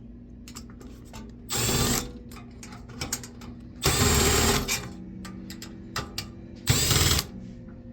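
Cordless screwdriver whirring in three short bursts as it backs screws out of a computer case, with small clicks of metal parts between the bursts.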